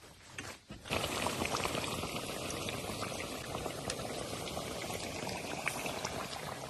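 A steady watery hiss with scattered small crackles, setting in about a second in.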